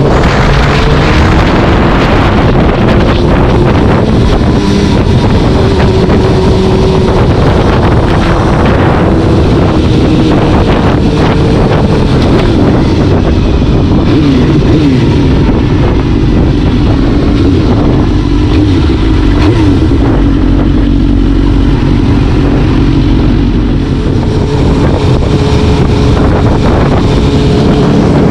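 Vehicle engine running under way while cruising, its pitch rising and falling with the throttle, with wind noise on the microphone.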